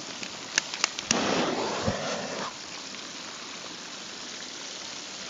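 Propane turkey fryer being relit: a few sharp clicks about half a second to a second in, then a short rush of noise as the burner lights, over a steady sizzle of the turkey frying in hot oil.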